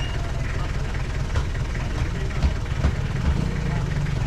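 Small motorcycle engine running at a steady low idle, with a few brief thumps.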